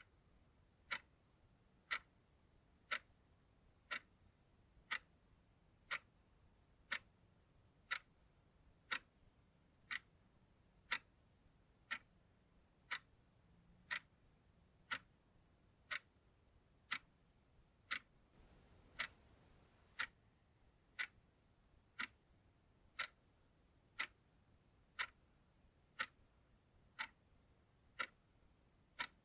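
Clock ticking steadily, one sharp, even tick each second.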